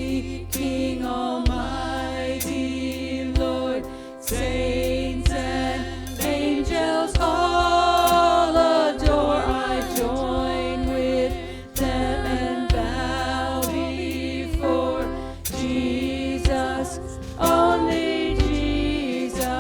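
A group of voices singing a hymn together, over held accompanying notes and low bass notes.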